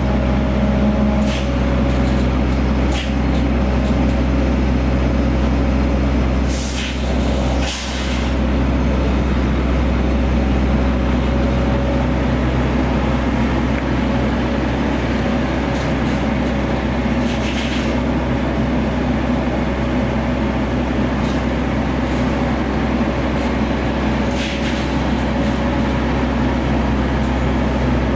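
DAF XF105.460 truck's six-cylinder diesel running steadily, heard from the cab, with several short hisses of compressed air from the air brakes, two of them close together about seven seconds in.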